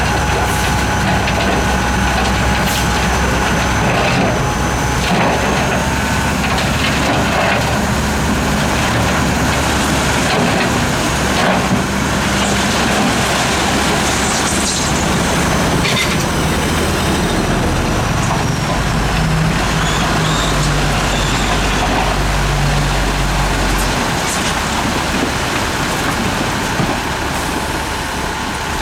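Heavy diesel earthmoving machinery running steadily under load, its engine note shifting now and then, with scattered knocks and scraping of rock and soil being pushed.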